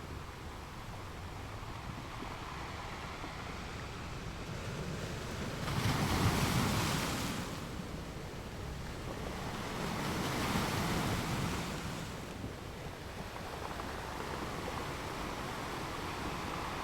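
Ocean waves washing in as a steady hiss of surf, with two waves breaking and receding: a louder one about six seconds in and a softer one about ten seconds in.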